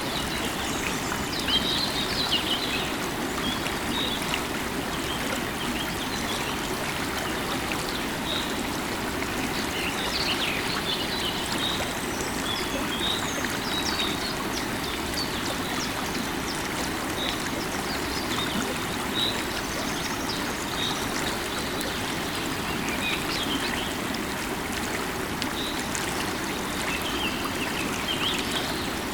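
A river of running water flowing steadily, with birds chirping in short calls here and there over it.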